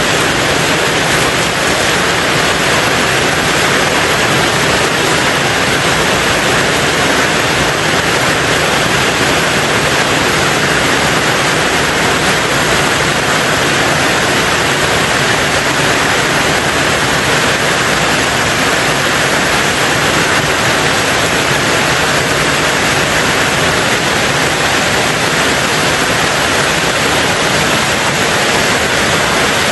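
Steady rain falling on a tin roof, an even, unbroken hiss.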